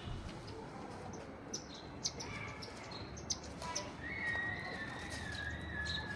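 Munias (small finches) chirping while feeding, with short high chirps and a longer thin note from about four seconds in.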